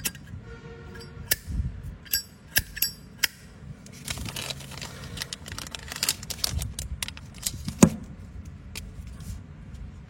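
Metal flip-top lighter being handled: the lid clicks open and shut, with ringing metallic clinks and a short scraping rasp like the flint wheel being struck, and one sharp, loud click near the end.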